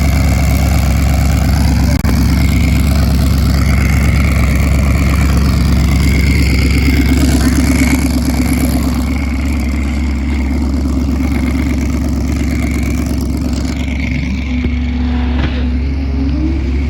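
Twin-turbo Ford Coyote 5.0 V8 in a drag Mustang running loud and steady, with a rising rev near the end.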